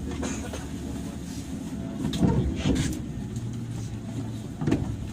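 Steady low hum inside a JR 103-series electric train car, with three short knocks, the loudest about two seconds in.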